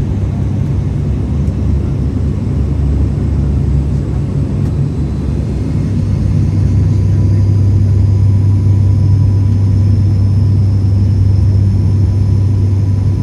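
Cabin noise of an ATR 72 turboprop airliner on approach to land: the steady, low drone of its propellers and engines, growing a little louder about halfway through.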